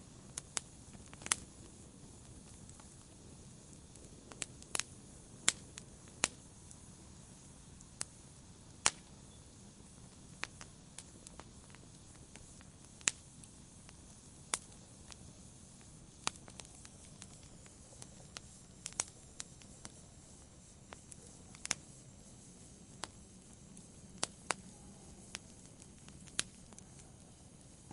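Wood fire in a fireplace crackling: sharp pops and snaps at irregular intervals, about one a second, over a soft steady hiss.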